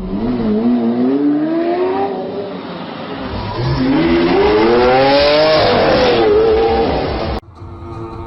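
A car engine revving hard under acceleration, its pitch rising in two long sweeps, the second falling back. It cuts off abruptly near the end.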